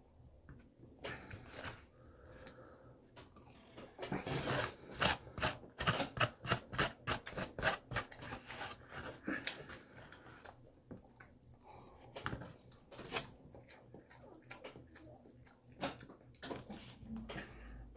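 Close-up chewing and eating sounds, quick and loudest from about four to ten seconds in, then sparser, along with plastic knife and fork working food in a foam takeout container.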